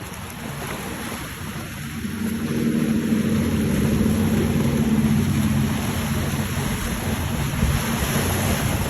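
A motorboat's engine droning steadily as the boat passes through the inlet, coming in about two seconds in and holding, with wind on the microphone and waves throughout.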